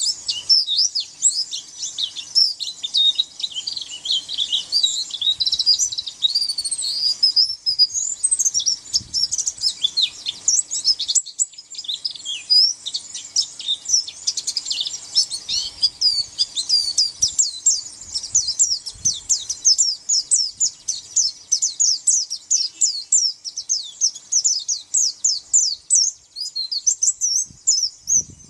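White-eye (pleci) singing a fast, continuous, high-pitched song of rapid chirps and short trills, with only a brief break about eleven seconds in.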